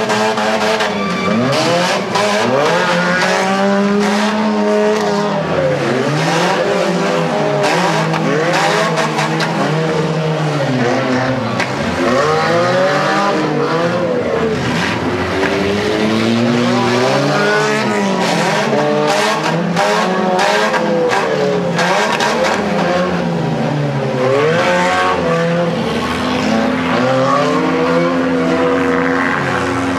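Several demolition derby cars' engines revving hard and easing off over and over, their pitches rising and falling across one another, with repeated sharp knocks and bangs.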